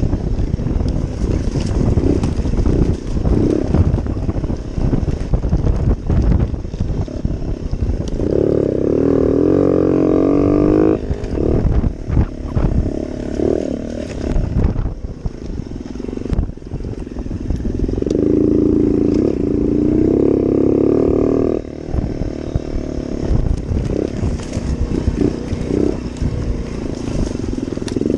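Yamaha TT-R90 mini dirt bike's small four-stroke single-cylinder engine running while being ridden, revving up hard twice for a few seconds each, about eight seconds in and again about eighteen seconds in. A low rumble with many short knocks runs under it.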